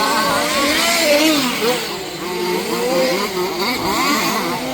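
Several 1/5-scale RC cars' small two-stroke petrol engines buzzing together, their pitches rising and falling as they rev and back off around the track.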